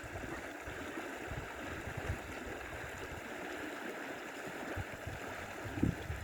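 Stream water flowing steadily. A few low thumps come near the end.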